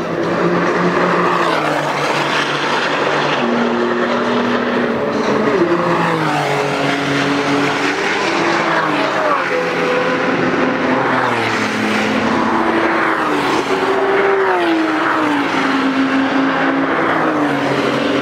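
Several high-performance sports car engines running hard at once, overlapping, each climbing in pitch and then dropping in steps as it shifts gear.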